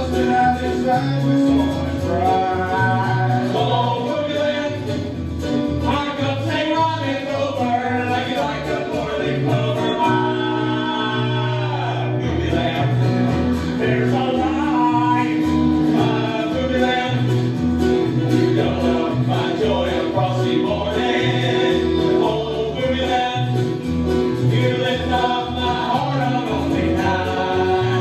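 Country-style show tune: voices singing over a band with guitar and a steady bass line.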